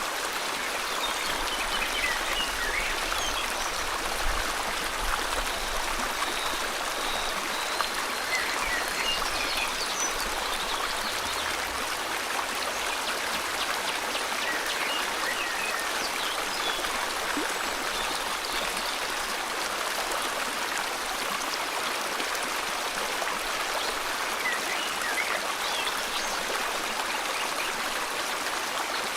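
Steady rush of a flowing river, with birds chirping now and then above it.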